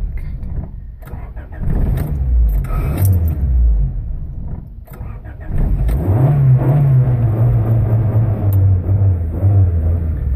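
1995 Honda Civic engine struggling on a cold start: it runs unevenly with rising and falling revs and sags almost to a stall about four to five seconds in. It then picks up with a sharp rise in revs and settles into an unsteady, wavering idle, typical of this car's trouble starting cold and dying right after it fires.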